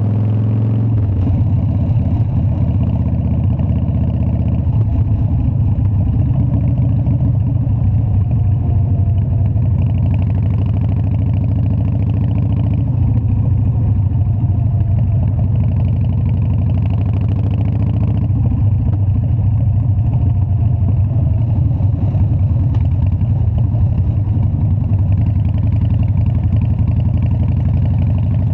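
Harley-Davidson Dyna's air-cooled V-twin engine running steadily with a throbbing, pulsing exhaust note that shifts a few times, about a second in, around five seconds, and again around thirteen and eighteen seconds.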